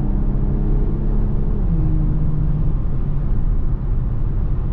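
Infiniti Q50's engine pulling with a steady note, then dropping in pitch about a second and a half in as the car shifts or comes off the throttle. Its note fades into a low road rumble in the second half.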